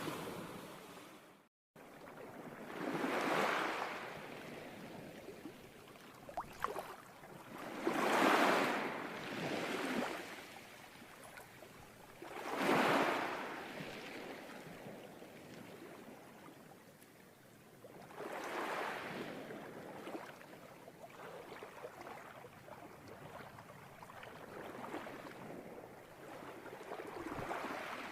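Ocean waves washing onto a shore, each surge swelling and fading away every few seconds, with a brief break in the sound just under two seconds in.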